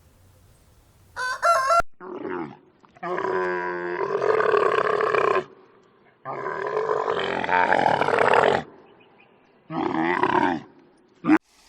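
Animal calls: a brief high, wavering cry about a second in, followed by a series of loud, drawn-out pitched calls of about two seconds each, with shorter calls near the end.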